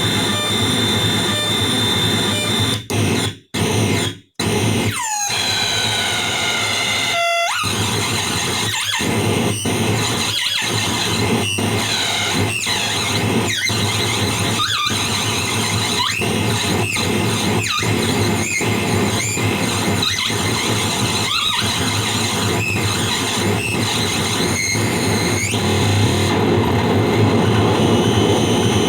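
PT2399 delay-chip noise delay pedal squealing in a dense wash of noise, its echoes sweeping down in pitch about once a second. The sound cuts out twice, briefly, a few seconds in.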